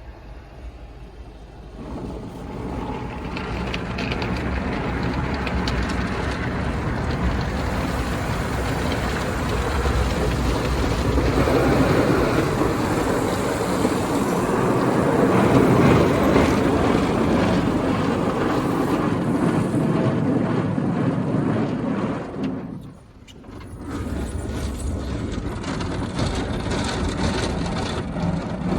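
D&S IQ 2.0 soft-touch in-bay car wash machine at work: a steady rush of water spray and machinery that starts about two seconds in, grows louder toward the middle and drops out briefly about three-quarters of the way through before starting again.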